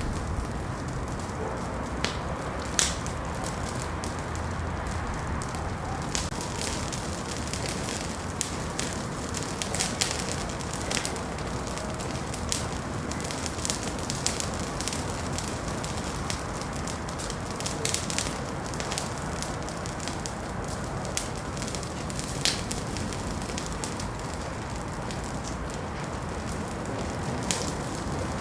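Wood fire burning in a fireplace: a steady low rush of flame with irregular sharp crackles and pops, a few louder snaps standing out.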